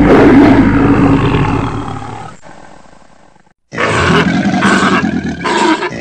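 Loud animal roaring from a brown bear and cougar fight, strongest at the start and fading away over about three seconds. After a short silence, hippos in a crowded herd calling in a second stretch of repeated grunting calls.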